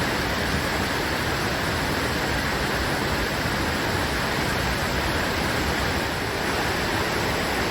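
Fast-moving floodwater rushing steadily, a flooded creek running over a road.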